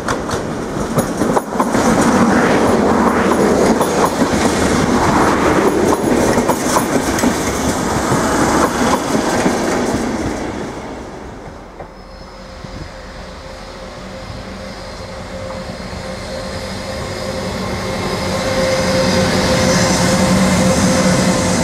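Passenger train passing on the station tracks, its wheels clattering over rail joints, then fading away about ten seconds in. A steady hum from a train then grows louder toward the end.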